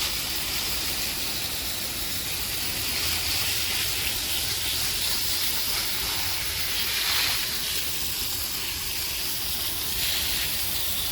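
Steady hiss of water spraying onto a pulled engine block, rinsing it clean, with small swells as the spray moves.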